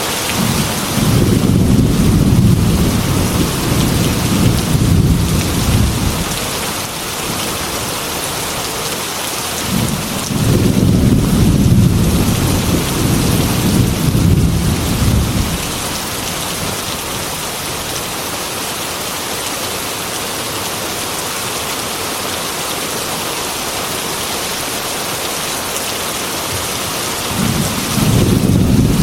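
Heavy rain falling steadily, with rolls of thunder rumbling low: one starting about a second in and lasting about five seconds, another about ten seconds in, and a third starting near the end.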